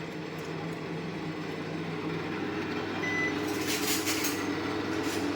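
Steady low mechanical hum, with a brief high electronic beep about three seconds in and a short rustle just after it.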